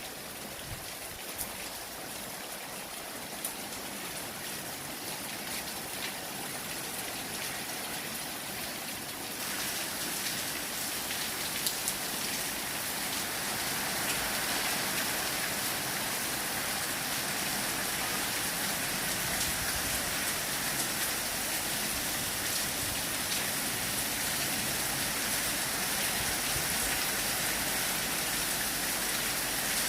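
Heavy rain pouring down in a steady hiss, growing louder about a third of the way in and again near the middle, then holding steady.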